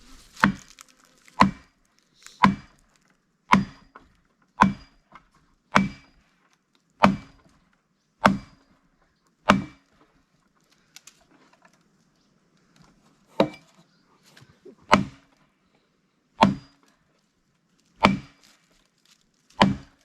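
Axe blows striking a log being split for firewood, each with a short ringing tone. A steady run of about nine strikes roughly a second apart, a pause of a few seconds, then about five more.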